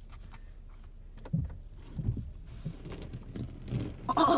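Water from a hose spray hitting the car's body and windshield, heard from inside the cabin as a faint wash with irregular dull thumps.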